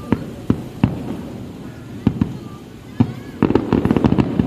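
Aerial fireworks going off: a few separate sharp bangs, then a rapid string of bangs close together for about the last second.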